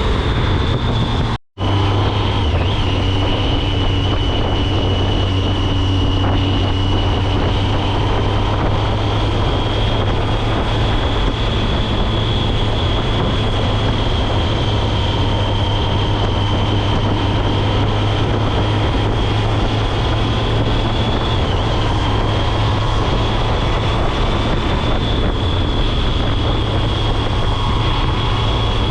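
2006 Triumph Speed Triple's 1050 cc inline-three engine running at steady cruising revs, heard from the rider's position with wind and road noise. The note holds even throughout, with a brief total dropout of sound about a second and a half in.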